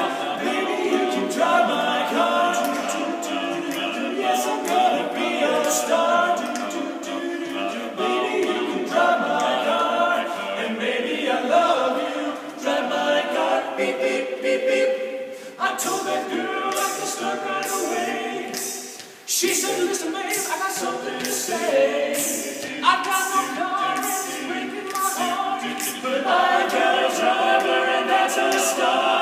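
A cappella vocal group singing in harmony, with no instruments, over sharp rhythmic ticks that get denser in the second half. The voices break off briefly about two-thirds of the way through.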